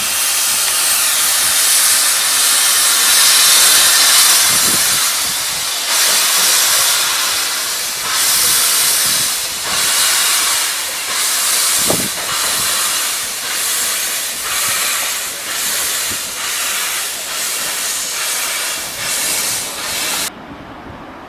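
Steam locomotive hissing loudly, then puffing in regular exhaust beats about one and a half a second, gradually quickening as it moves off. The sound cuts off abruptly near the end.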